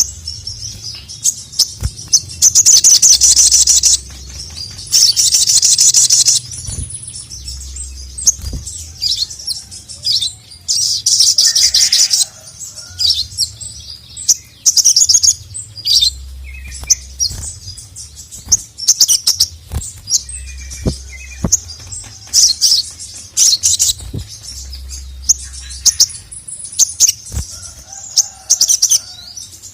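A sogon (sogok ontong, a spiderhunter) in full song: repeated loud, rapid, high-pitched chattering phrases with shorter calls between them. The longest and loudest phrases come about three, five and eleven seconds in.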